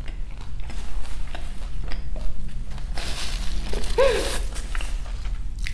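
Close-miked mouth sounds of someone chewing food with lips closed: small wet clicks, then a breathy exhale about three seconds in and a short hummed "mm" about a second later.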